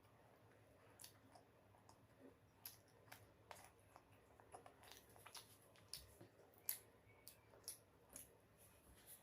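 Faint chewing with irregular wet mouth clicks and small ticks of eating, about a dozen scattered over the stretch, the sharpest a little before the last third.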